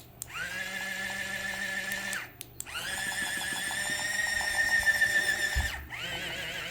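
Electric toy giving a high-pitched whine in three bursts, each rising quickly to a steady pitch and falling off when it cuts out; the third burst warbles.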